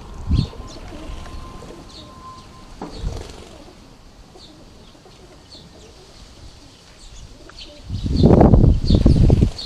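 Garden birds at a shallow water tray: short high chirps repeat every half second or so, with a couple of soft low thumps early on, then a loud burst of wing flapping about eight seconds in that lasts a second and a half.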